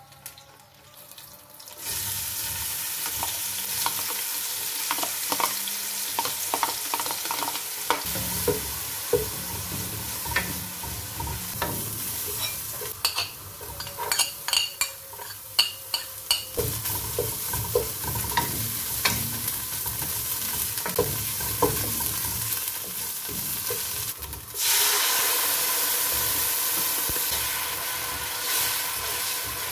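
Chopped onion frying in oil in a nonstick pot, a steady sizzle with a wooden spatula scraping and knocking against the pot as it is stirred. Near the end, with tomato puree in the pan, the sizzle gets louder.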